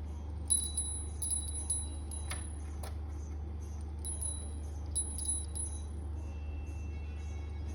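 A small metal bell jingling as a parrot plays with it, in two bouts of several quick rings: one starting about half a second in, another about four seconds in. A steady low hum runs underneath.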